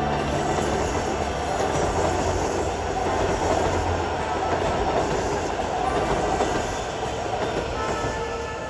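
A train rolling past, a steady rush of wheels on rail that eases slightly near the end.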